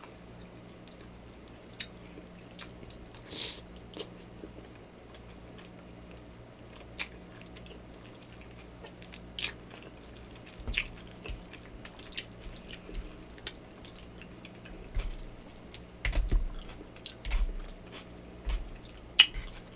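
Close-miked eating sounds of a person eating yakamein noodle soup: chewing with wet mouth clicks and smacks. They come sparsely at first, grow more frequent in the second half, and run over a faint steady hum.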